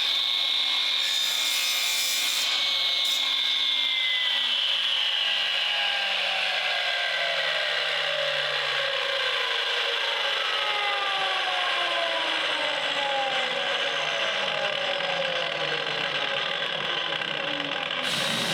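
Milwaukee M18 12-inch miter saw's motor and blade whining at full speed, then coasting down with a slowly falling whine that lasts well over ten seconds instead of stopping quickly: the saw's electric brake has failed.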